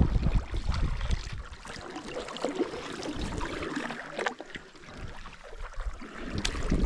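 Water sounds around a canoe: paddle strokes, with water swishing and dripping, and two sharp knocks about four and six and a half seconds in.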